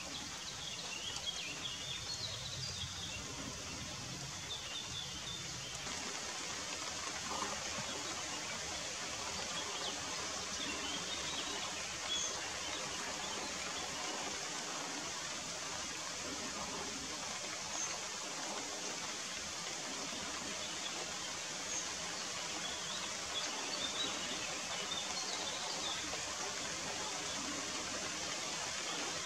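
Steady rain falling on grass and leaves, an even hiss, with faint bird chirps near the start and again near the end.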